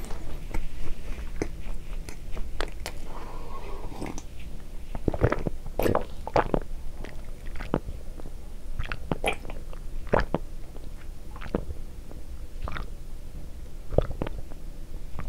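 Close-miked mouth sounds of a man chewing soft cream bread, then drinking tea from a glass in the second half, with a string of separate wet clicks and swallows about a second apart.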